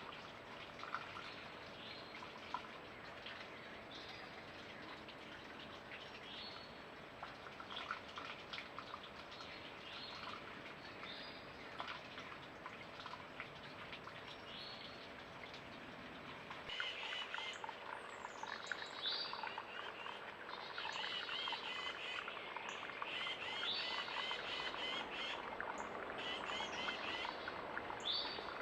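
Small birds chirping and calling over the steady rush of a mountain creek. About 17 seconds in, the calls become louder and much busier, with rapid repeated chirps.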